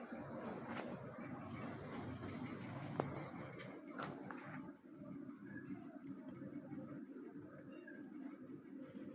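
A steady, faint, high-pitched insect trill, with one sharp tap about three seconds in and a couple of lighter clicks near it: light knocks on the motorcycle's rear wheel to move it forward in the loosened chain adjusters.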